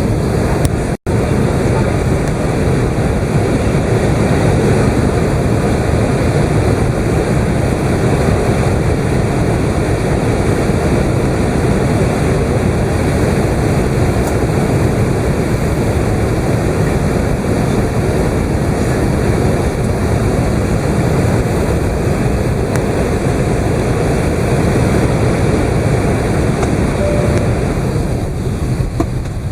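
Airbus A380 cabin noise heard inside the upper deck: a steady, dense rumble of engines and airflow. It drops out for an instant about a second in.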